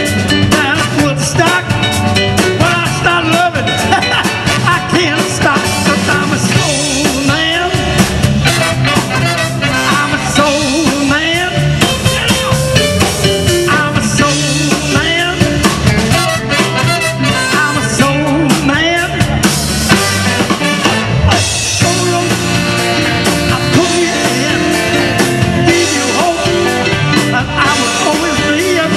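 A soul and blues band playing live at full, steady loudness.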